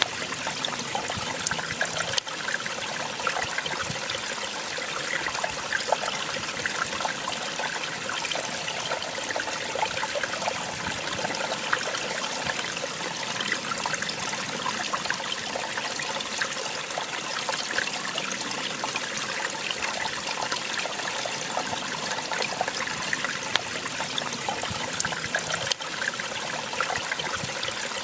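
Small waterfall: water splashing and trickling steadily. There is a sharp click about two seconds in and another near the end.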